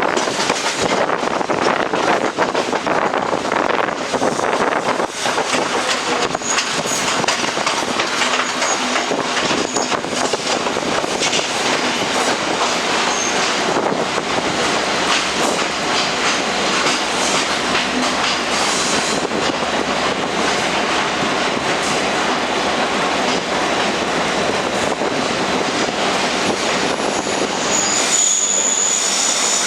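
Udaya Devi express train running along the track, a steady rolling rattle of wheels and coaches. A high wheel squeal rises near the end.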